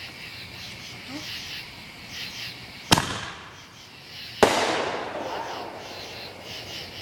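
Two firework bangs about a second and a half apart, the second the louder and trailing off slowly, over a steady chirring of crickets.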